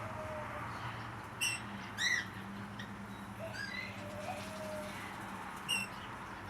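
Red-rumped parrot hen giving short, very high-pitched squeaking calls, about four spread over a few seconds, over a faint low steady hum.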